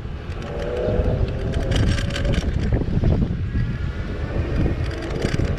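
Wind buffeting the microphone while riding an e-bike, a loud low rumble, with some brief clicking rattles about two seconds in and again near the end.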